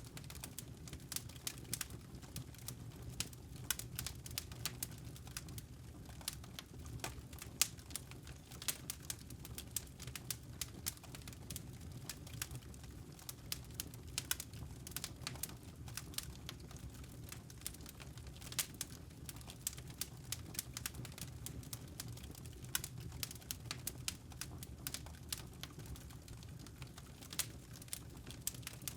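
Wood fire burning: irregular sharp crackles and pops of the logs over a steady low rumble of the flames.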